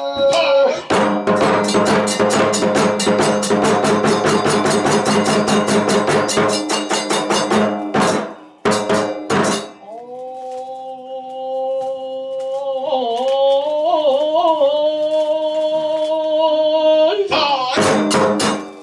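Kagura ensemble music: drums and hand cymbals in a fast, dense rhythm, a few single strokes, then a long held melodic line that wavers in the middle, with percussion striking again near the end.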